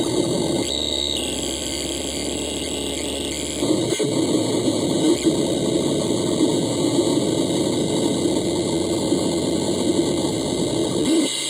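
Loud harsh electronic noise from an experimental noise machine: a dense, buzzing wall with steady tones laid through it. Its texture shifts about a second in and again near four seconds, and it drops back near the end.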